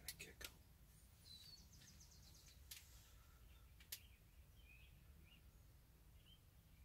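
Near silence with faint, high bird chirps and a short rapid trill outdoors, broken by a few sharp clicks near the start and again around three and four seconds in.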